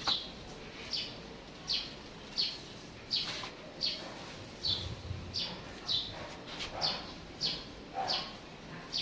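A bird chirping over and over, a short high note that falls in pitch, repeated steadily about every 0.7 seconds.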